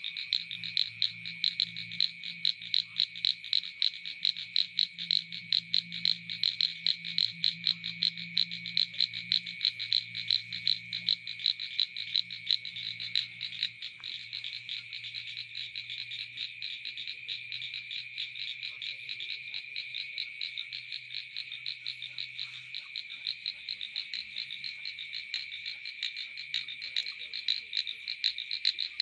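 Chorus of frogs in a rice paddy: dense, rapid pulsed calls, with a louder call repeating about twice a second through the first half and then settling into a steadier chorus.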